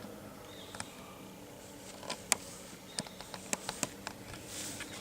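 A few sharp, scattered clicks and taps, about six, over a faint steady hum and hiss.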